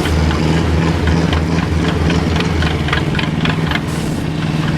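IFA W 50 off-road truck's diesel engine running at low revs with a deep, steady rumble that eases off about four seconds in, with scattered sharp clicks over it.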